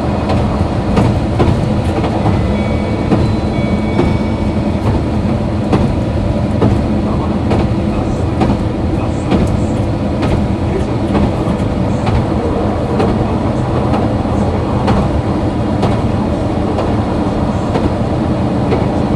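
Diesel engine of a KiHa 261 series railcar running steadily under power, with occasional clicks of the wheels over rail joints.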